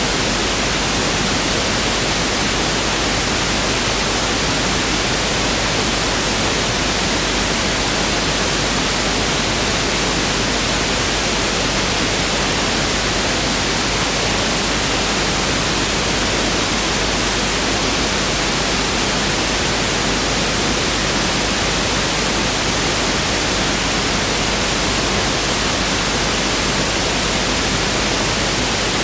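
Pink noise test signal (1/f noise): a steady, even hiss spread over the whole range, with no change in level.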